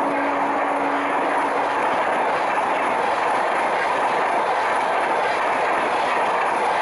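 Express train coaches passing at speed, a steady rush of wheels on rail with clickety-clack over the rail joints. A single held note of the train's horn carries on at the start and stops about two seconds in.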